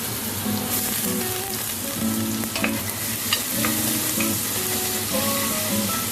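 Chopped garlic sizzling in hot olive oil and butter in a pan as it is stirred, with a few sharp clicks of the utensil against the pan about halfway through. Soft background music runs underneath.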